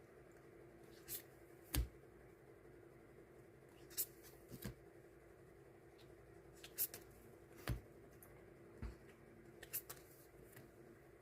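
Hands handling die-cut paper stickers and packaging: scattered light taps, clicks and rustles, about nine in all, over a steady low hum.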